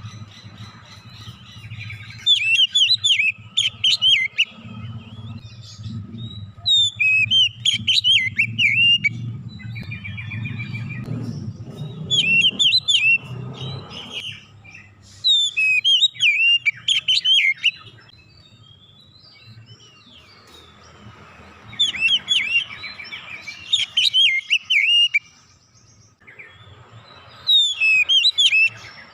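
Oriental magpie-robin (kacer) singing in loud bursts of fast, varied whistles and chirps, each lasting two to three seconds with short pauses between, about six times. A low hum runs under the first half.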